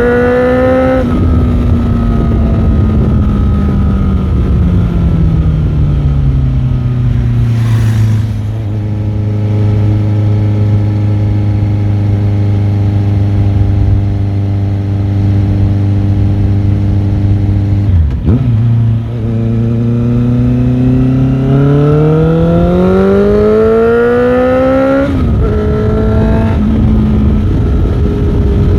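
Motorcycle engine under way, its revs falling over the first few seconds and then holding steady for a long stretch. After a brief break about two-thirds through, the revs climb for several seconds, drop sharply at a gear change, and settle again.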